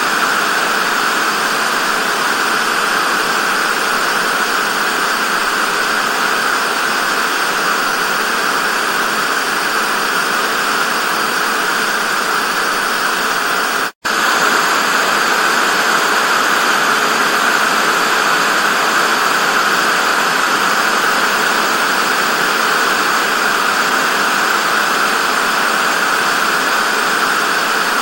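Television static: a steady, even hiss that cuts out for an instant about halfway through.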